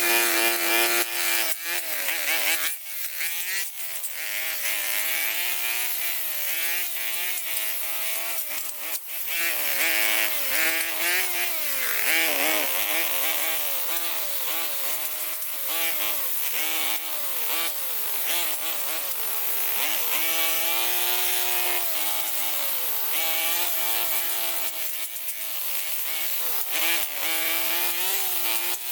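Small handheld two-stroke tool engine running at high revs while cutting, its pitch dipping and recovering again and again as the load comes on and off.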